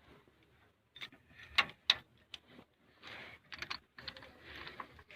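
A wrench tightening the connecting-rod big-end cap bolts on a Cummins diesel engine: a few sharp metal clicks, then short bursts of rattly ratcheting in the second half.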